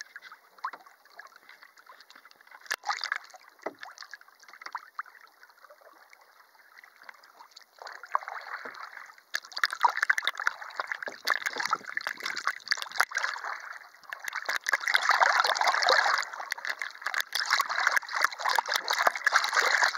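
Water lapping and splashing against a canoe, with scattered knocks, growing louder from about eight seconds in.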